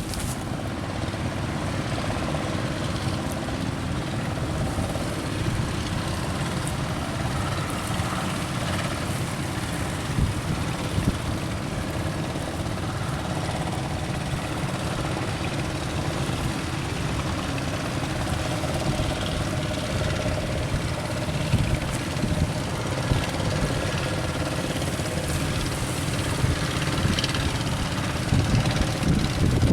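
Boat engine running steadily, under a constant low rumble of wind on the microphone.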